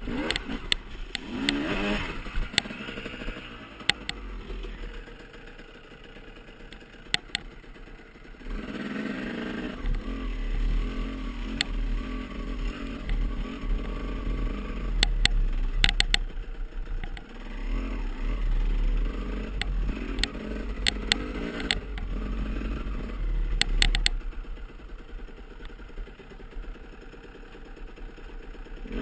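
Off-road motorcycle engines revving up and down, with many sharp knocks and clicks throughout. The engines are quieter for a few seconds early on, then pick up again about 8 seconds in.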